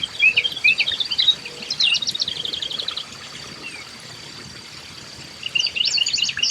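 Small songbirds chirping and calling, with a quick trill of rapid repeated notes about two seconds in; the calls thin out in the middle and grow busy again near the end, over a faint steady high-pitched tone.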